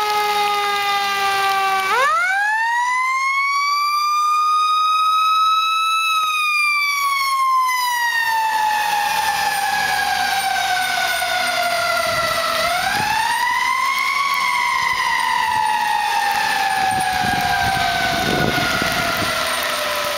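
Fire engine siren wailing. Its pitch winds up sharply about two seconds in, climbs for a few seconds, then slides slowly down, with a second shorter rise and long fall in the latter half.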